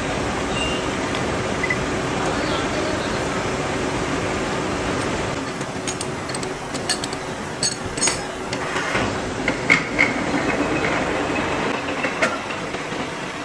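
Steady workshop machinery noise, then a run of sharp metal clanks and knocks in the second half.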